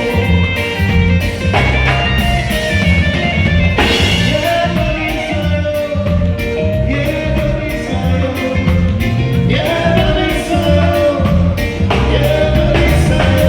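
Live band playing a groove: a drum kit keeping a steady beat under a repeating bass line, with a voice singing held, sliding notes over the top.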